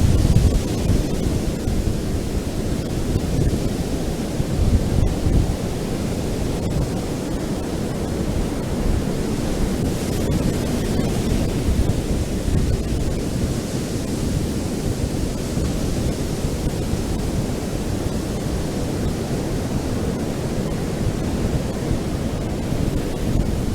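Ocean surf washing onto a beach: a steady, deep rush of breaking waves with small swells in loudness.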